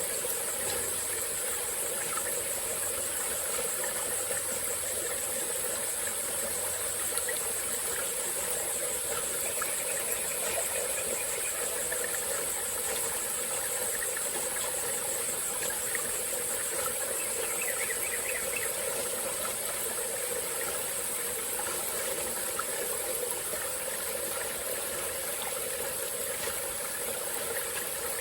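Small tropical forest stream flowing steadily over its bed, with a constant high-pitched insect chorus above it.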